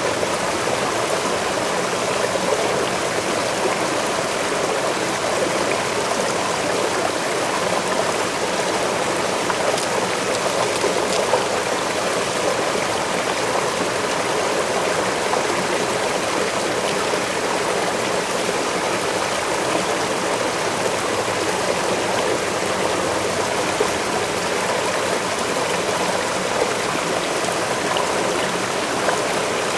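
Forest waterfall rushing steadily, an even wash of falling and flowing water without breaks.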